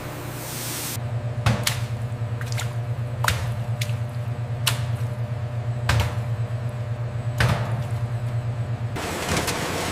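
Machinery running with a steady low hum, broken by about seven sharp clicks or knocks at irregular intervals; the hum sets in about a second in and gives way to a noisier sound near the end.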